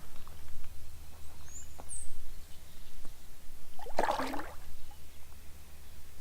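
A bass released back into the creek: a short splash about four seconds in, over a steady low wind rumble on the microphone, with one brief high bird chirp about two seconds in.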